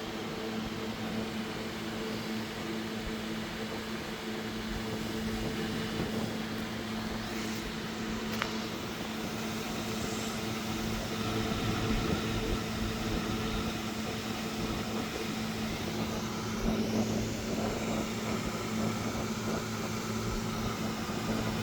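Steady low mechanical hum from a running motor or appliance, with a faint click about a third of the way in.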